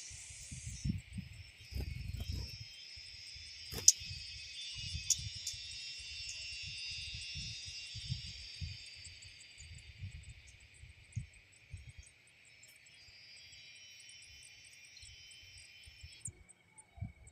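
Steady chorus of insects, many thin high tones together, which cuts off abruptly near the end. Low, irregular rumbles come and go underneath, with one sharp click about four seconds in.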